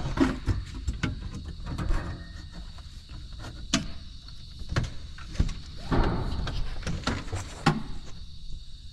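Irregular clicks, taps and knocks of work on an aircraft instrument panel and its wiring: parts and tools being handled.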